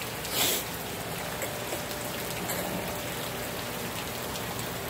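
Steady hurricane rain falling and trickling, with one brief louder rush about half a second in.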